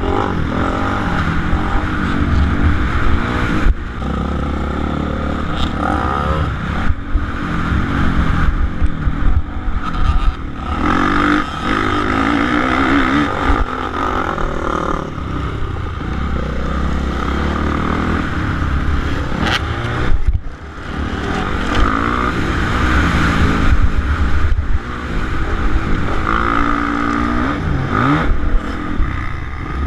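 Suzuki RM-Z450 motocross bike's four-stroke single-cylinder engine ridden hard, revving up and down again and again through the gears and throttle changes. About two-thirds of the way through it falls away briefly, then picks up again.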